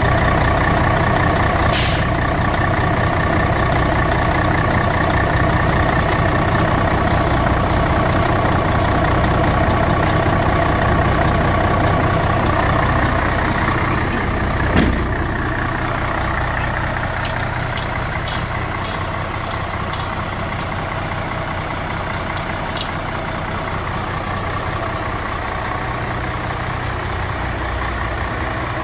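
Mercedes-Benz Actros 2643 tipper truck's diesel engine idling steadily. A short hiss comes about two seconds in, and a sharp knock about halfway through, after which the engine sounds a little quieter.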